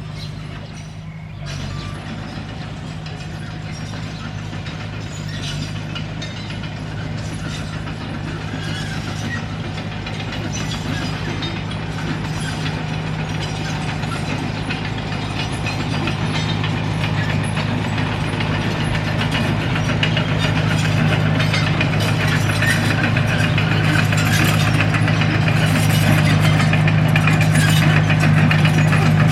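Komatsu D21P crawler bulldozer's diesel engine running steadily, with the clatter of its steel tracks over it, the whole growing gradually louder.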